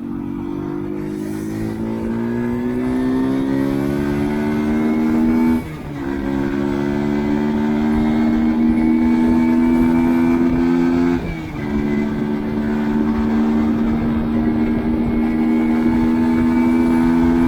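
Mash Fifty 50cc single-overhead-cam four-stroke engine pulling through the gears under way: the pitch climbs, dips sharply at a gear change about six seconds in and again about eleven seconds in, then holds fairly steady at cruising revs.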